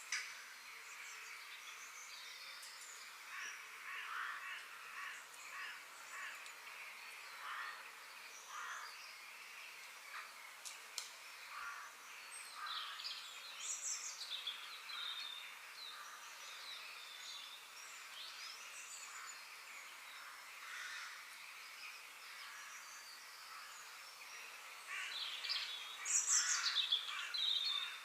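Several birds chirping and calling over a steady hiss of outdoor background noise, with a louder flurry of calls near the end.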